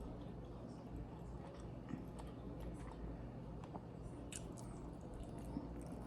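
Close-miked chewing and mouth sounds of a person eating, with small scattered wet clicks.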